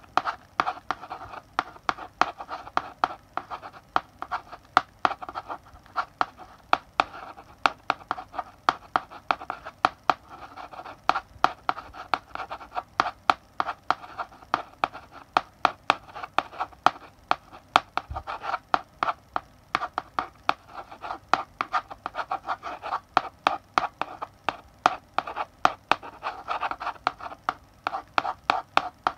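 Chalk writing on a blackboard: quick scratchy strokes with frequent sharp taps as the chalk strikes the board.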